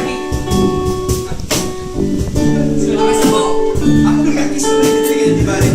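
A band rehearsing: guitar chords played over frequent sharp percussive hits.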